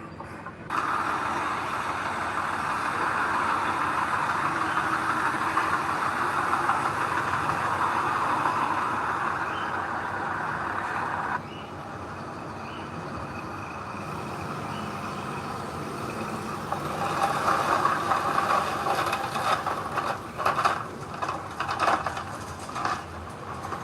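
Heavy earthmoving machinery running steadily, with irregular knocks and clanks in the last few seconds; the sound changes abruptly twice, as if cut between clips.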